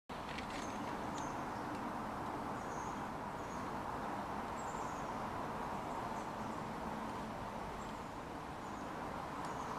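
Outdoor ambience: a steady background noise with faint, short bird chirps scattered through it.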